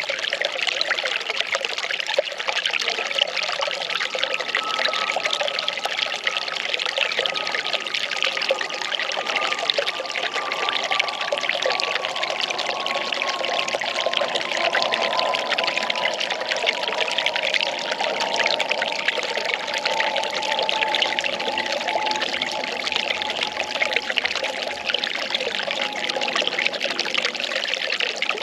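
Well water pouring and trickling steadily, with a faint tone under it that slowly falls in pitch.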